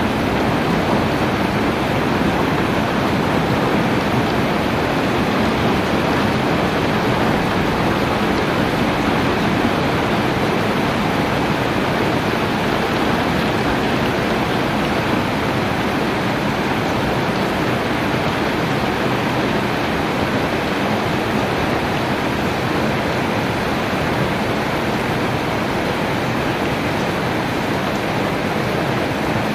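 Heavy rain falling steadily: a dense, even hiss of downpour with no single drops or thunder standing out.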